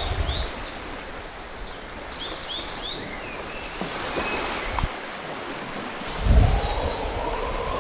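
Nature ambience: birds chirping in short, repeated calls over a steady rush of water, which swells louder about six seconds in.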